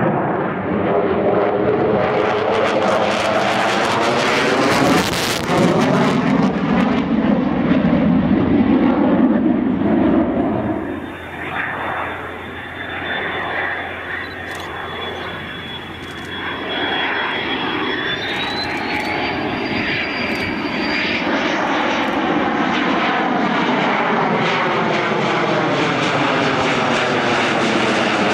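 Military aircraft engine noise as an aircraft passes, swelling and easing with a slowly sweeping, phasing sound. About halfway in, a thin high whine comes in and later rises in pitch.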